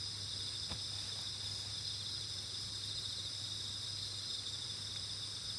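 Crickets chirring steadily in two high, continuous bands, with a faint low hum underneath and a single faint click about a second in.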